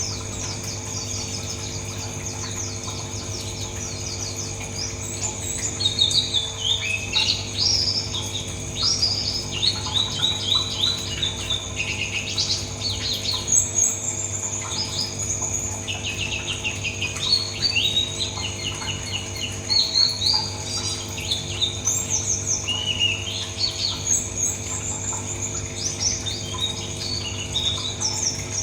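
Pleci buxtoni white-eye singing a continuous stream of rapid, twittering chirp phrases, packed with imitated song material, and getting louder after about five seconds. A steady low hum runs underneath.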